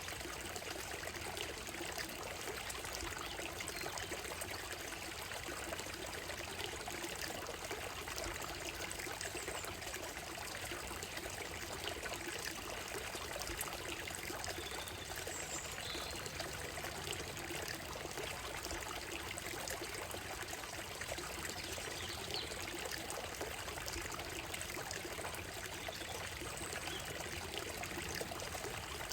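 Small stream running steadily over stones and a gravel bed, a continuous trickling and pouring of water.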